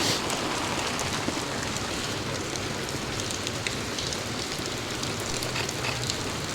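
Heavy rain falling steadily on the street and hard surfaces, an even hiss with scattered drop ticks.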